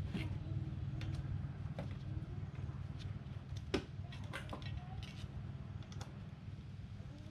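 Scattered small metal clicks and taps from parts and hand tools being handled while the lawn mower engine is worked on, one sharper knock about three and a half seconds in, over a steady low hum.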